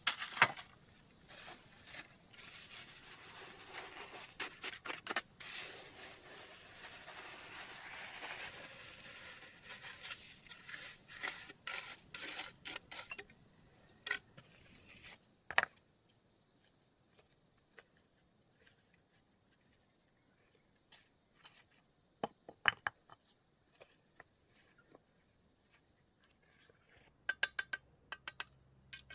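Irregular clicks and knocks of small hard objects being handled, over a rustling noise for the first dozen seconds or so. After that the knocks are sparser, and short, very high chirps repeat every couple of seconds.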